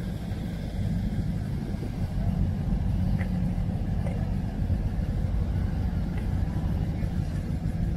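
A car engine running steadily, a low rumble.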